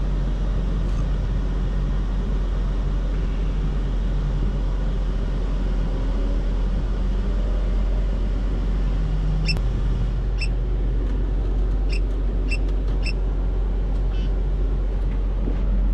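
Mercedes-AMG GT63 S twin-turbo V8 running steadily at low revs, a low hum with little change. About two thirds of the way through, a few short, high electronic beeps sound at uneven intervals.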